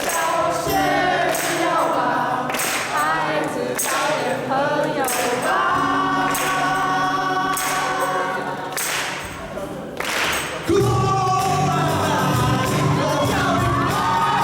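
A group of voices singing a song together over a band accompaniment with a steady beat; about eleven seconds in the accompaniment comes in louder and fuller.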